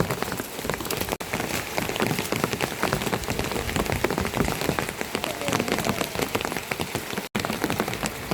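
Steady rain falling: a dense, even spatter of many drops.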